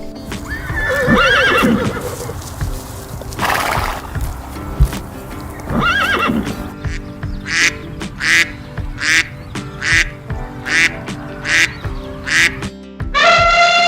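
Horse whinnying with a wavering, quavering pitch, twice, with a short breathy snort between. It is followed by about ten short, evenly spaced calls, a little under two a second, all over background music.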